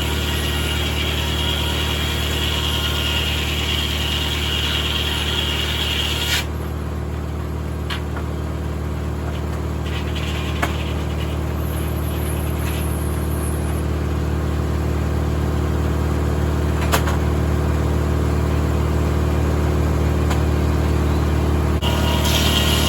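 Tractor-powered 1950 Corley circular sawmill running, the engine steady throughout. A high, hissing cutting noise from the blade stops about six seconds in and starts again near the end. A few sharp knocks come in the quieter stretch between.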